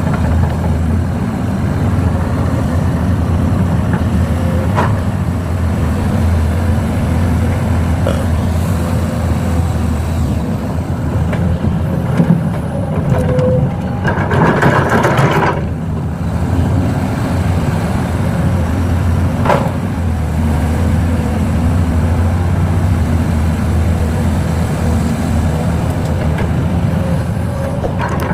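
Heavy diesel engine of a Kobelco excavator running steadily while it loads soil, with a rush of noise lasting about two seconds about halfway through.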